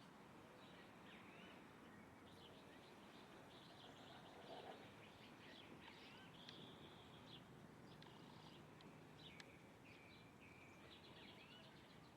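Faint chirping and twittering of small songbirds, many short calls overlapping, over a steady background hiss, with a brief soft lower sound about four and a half seconds in.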